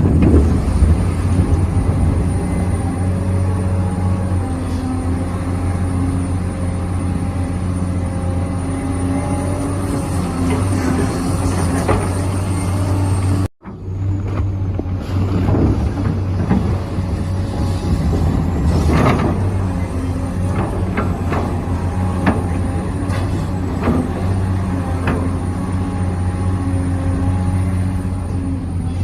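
Hydraulic pump of a remote-control Volvo excavator model running with a steady hum that shifts a little in pitch as the hydraulics take load, with scattered sharp clicks and knocks. The sound drops out for an instant about halfway through.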